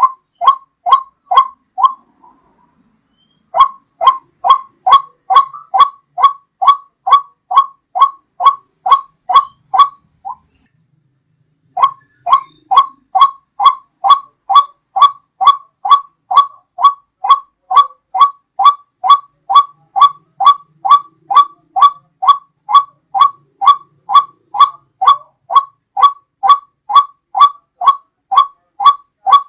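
Recorded lure call of a white-breasted waterhen (ruak-ruak): a loud, monotonous run of short 'ruak' notes, about two a second, broken by two brief pauses before starting again.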